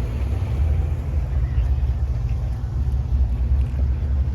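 A loud car exhaust rumbling steadily at idle, a deep low rumble with a slight flutter.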